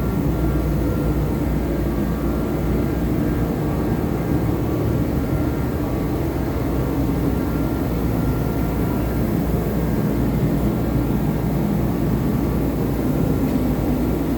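Steady machine drone with a few faint, high, steady whines above it.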